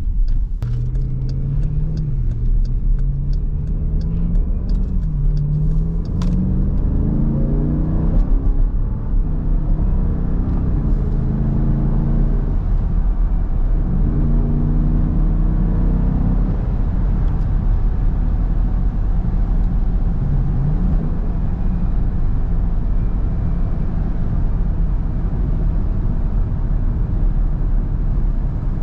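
V8 engine heard from inside the car, accelerating: its pitch climbs and drops back several times through gear changes, then settles into a steady cruise with one brief dip about 21 seconds in.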